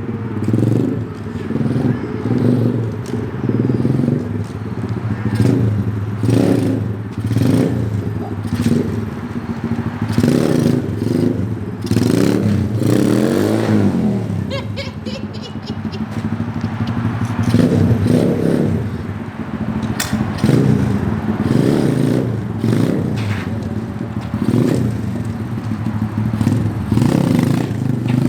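SSR 125 pit bike's small single-cylinder four-stroke engine being ridden, the revs rising and falling over and over as the throttle is opened and eased off, with one longer rise and fall about halfway through.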